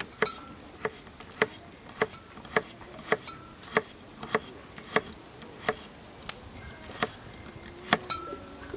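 Kitchen knife chopping garlic on a cutting board: steady, sharp knocks about every half second.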